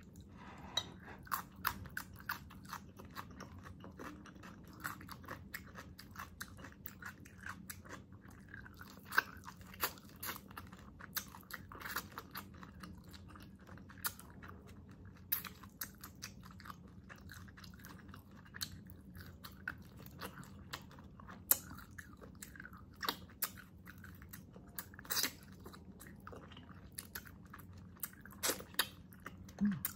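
A person eating braised pork hock (pork pata adobo) close to the microphone, biting meat off the bone. Soft chewing runs throughout, with irregular sharp clicks and crunches.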